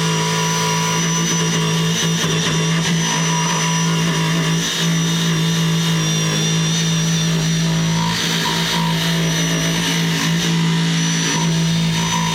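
Handheld electric power tool fitted with a wire brush, running steadily at high speed without a break as it scours loose material off a metal frame.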